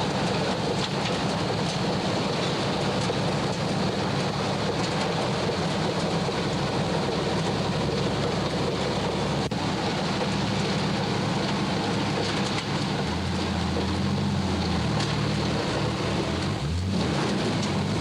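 Steady roar of hurricane wind and rain around a moving car, with the car's engine humming beneath; the engine hum shifts in pitch several times in the last few seconds.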